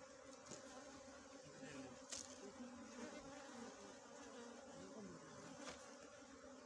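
Faint buzzing of small honeybees: many overlapping wavering hums, with faint clicks about two and five and a half seconds in.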